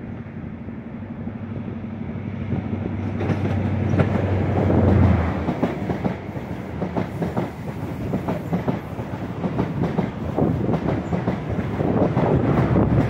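A diesel High Speed Train (InterCity 125) passing underneath. The leading power car's low engine hum builds until about five seconds in. Then the coaches' wheels clatter rapidly over the rail joints and points, getting louder again near the end as the rear power car goes by.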